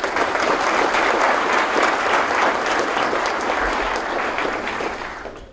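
Audience applauding in a hall, starting suddenly and fading out near the end.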